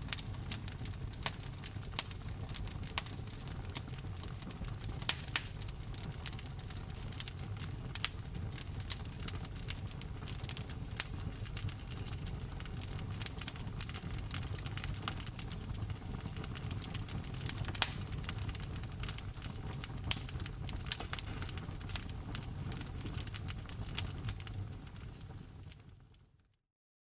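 Wood fire crackling in a fireplace: frequent sharp pops and snaps over a low steady rumble. The sound fades out to silence about a second before the end.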